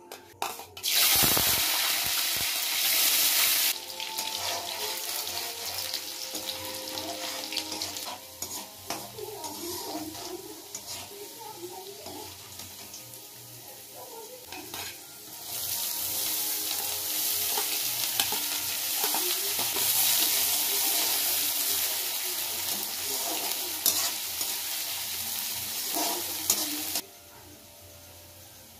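Chopped garlic and chillies frying in hot oil in a steel kadhai, sizzling loudly as they go in, with the scrape and clink of a slotted steel spoon stirring. The sizzle quietens, flares up again about halfway through, and drops off suddenly shortly before the end.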